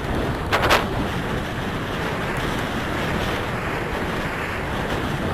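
Steady wind rushing over the microphone while riding, with a brief hiss about half a second in.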